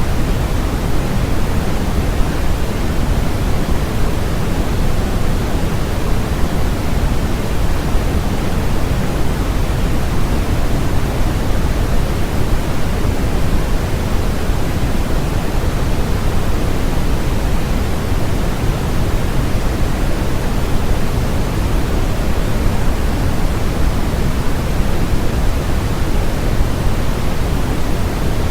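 Steady electronic white noise: an unbroken, even hiss with no rise, fall or breaks, heavier in the bass than in the treble.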